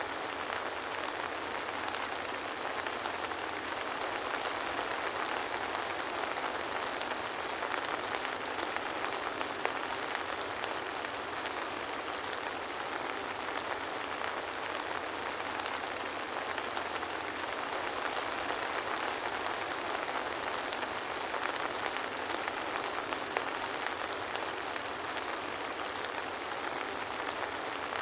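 Steady soft rain falling, an even hiss of many drops with no thunder.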